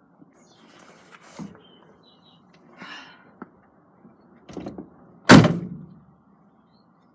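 A door slams shut about five seconds in, after a few lighter knocks and rattles.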